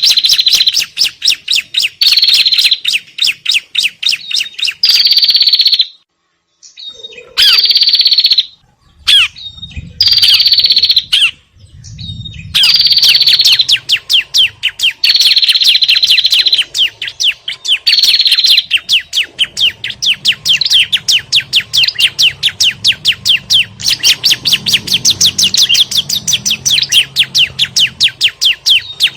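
Recorded bird-luring calls of prenjak and ciblek, small prinias, in their agitated alarm chatter. Rapid trains of sharp, high chipping notes, several a second, often opening with a short whistle. There are brief breaks around the middle.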